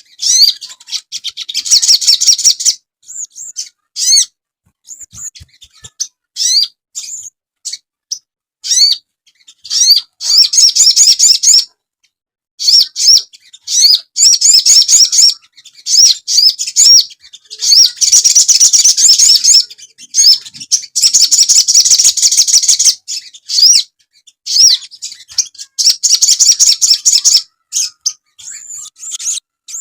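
Sogon bird calling: bursts of fast, high chirping trills one to two seconds long, separated by short pauses and single rising chirps. It is a recording used as masteran, to lure wild birds and to train caged birds.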